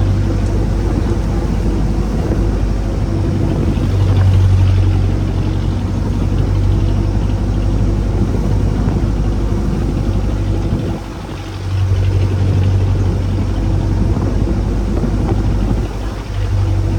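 Small fishing boat's engine running steadily at sea, a low hum with a rushing noise over it. The engine eases off briefly about eleven seconds in, then picks up again.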